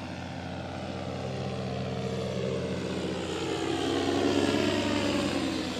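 Powered paraglider (paramotor) engine and propeller droning overhead, growing louder toward about four seconds in, its pitch falling as it passes.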